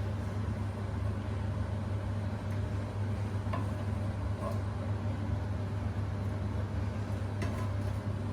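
A steady low machine hum, with a few faint light clinks of a serving utensil against bowls as chicken is portioned out.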